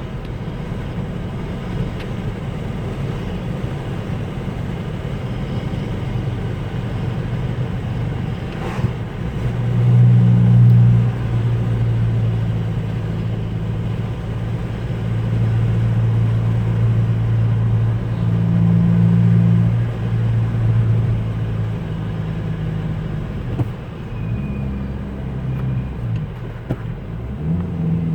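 2010 VW Jetta TDI's four-cylinder turbodiesel running through a full 3-inch straight-pipe exhaust while driving, a deep steady drone. It grows louder for about ten seconds midway through, and near the end the engine note steps up and down in pitch several times as the speed changes.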